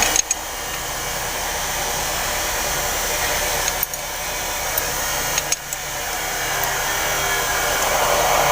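Steady whooshing background noise with a few small metallic clicks of hand tools as a valve adjuster is worked; the noise dips briefly two or three times.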